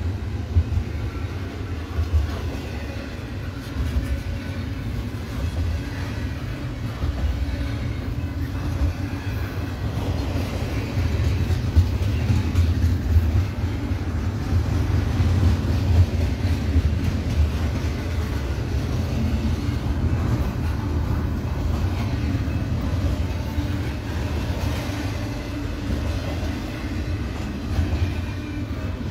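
Double-stack intermodal freight train's container well cars rolling past on the rails: a steady low rumble of steel wheels on track, with scattered clicks.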